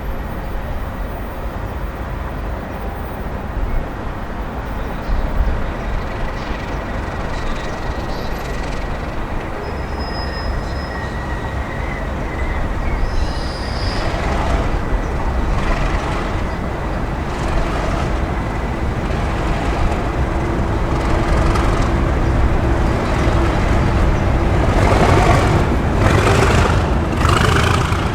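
Diesel train running along the tracks and getting louder as it approaches, with a faint steady high tone. In the last few seconds there is a run of clicks as its wheels pass over rail joints.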